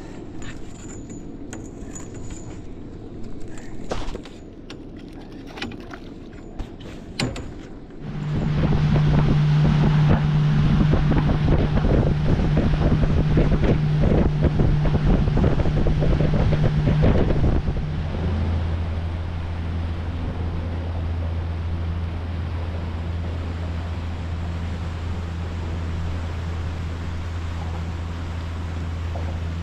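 Boat motor under way: about 8 seconds in, a loud run with water and wind rush and a steady hum sets in, and some ten seconds later the motor eases to a lower, quieter steady drone. Before that, a few knocks and clicks.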